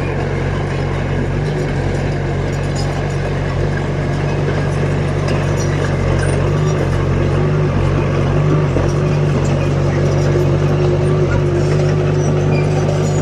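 Diesel engine of a heavy earthmoving machine running steadily, with a thin whine above the engine note. It gets slightly louder about halfway through.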